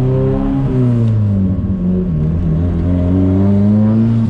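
Nissan S14's engine pulling under acceleration, its pitch climbing, dropping at upshifts about a second in and again around two seconds, then climbing once more.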